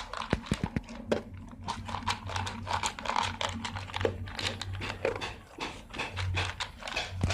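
Pit bull eating: rapid, irregular crunching and clicking of its chewing.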